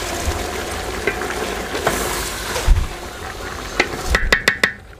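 Chicken and gourd pieces sizzling in a metal pot as they are stirred with a wooden spatula, with light scraping clicks. Near the end the sizzle falls away and a quick run of about five sharp knocks follows, the spatula striking the pot.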